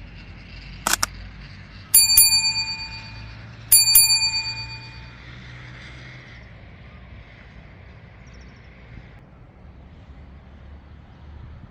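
A small metal bell rung twice in quick succession, each ring fluttering and fading over about a second, after a sharp click about a second in.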